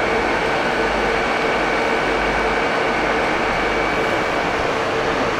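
Train at a station, a steady rumble and hum with several steady whining tones over it.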